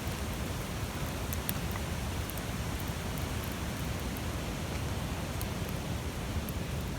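A big wood campfire burning hard: a steady low rush of flame with scattered small crackles and pops.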